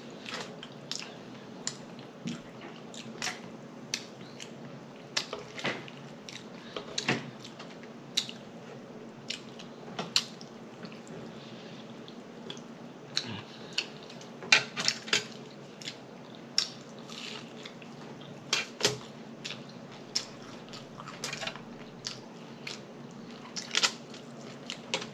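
Close-miked eating sounds: wet chewing and lip smacking, with irregular sharp smacks, over a steady low hum.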